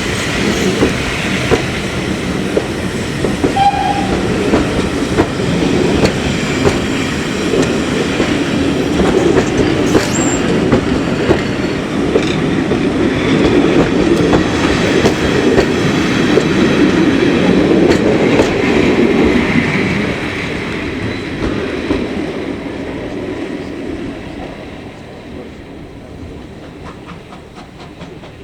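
Steam-hauled train passing, its wheels clattering over the rail joints. The sound builds to its loudest about two-thirds of the way through, then fades as the train moves off.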